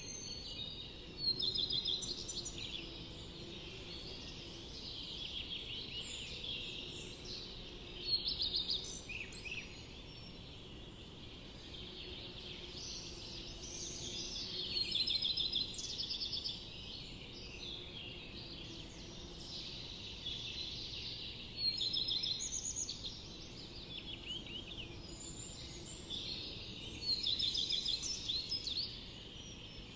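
Forest birds singing: a louder song phrase of rapid trilled notes comes about every five to six seconds, each lasting a second or two, over a constant chorus of more distant birdsong.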